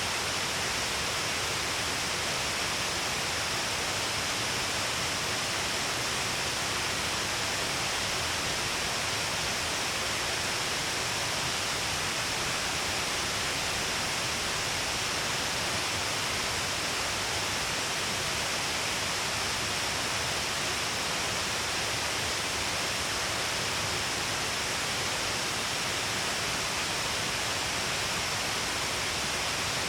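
Shiraito Falls, a wide curtain of water falling in many strands down a cliff face, giving a steady, unbroken rush of falling water and spray.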